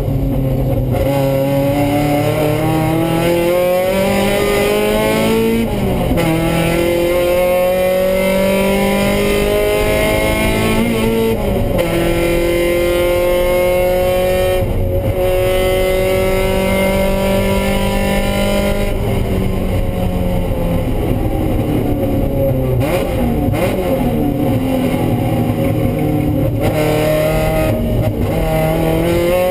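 Mazda Miata race car's four-cylinder engine heard from inside the cockpit under hard acceleration. Its pitch climbs through the gears, with upshifts about six and eleven seconds in and a long pull after them. It then falls as the car slows and downshifts, and climbs again near the end.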